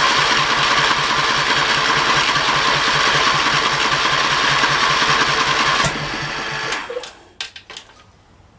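John Deere engine turning over on the starter with the choke off, with an even pulse, for about six seconds. It then drops off and winds down to a stop, followed by a few clicks.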